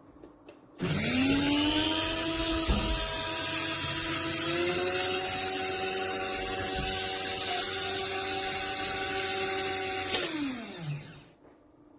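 Electric blade coffee grinder (Moulinex AR1108) motor switching on and spinning up with a quickly rising whine. It runs steadily for about nine seconds, its pitch creeping a little higher midway, then cuts off and winds down with a falling whine.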